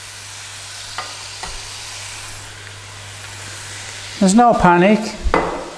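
Beef, onion and ginger stir-fry sizzling steadily in a hot pan just after oyster sauce and sugar have gone in, with a couple of light clicks about a second in.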